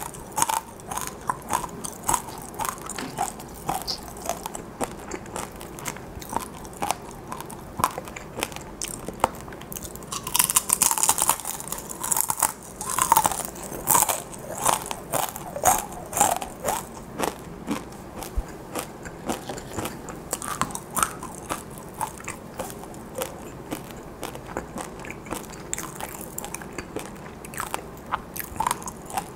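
Close-miked crunchy chewing of fried, sugared dried chili pepper chips (gochu-twigak): a steady run of crisp crunches and crackles from the mouth, a little louder about a third of the way in.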